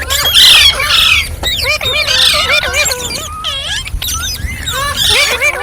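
Green parrots chirping and squawking, many quick rising and falling calls overlapping one another.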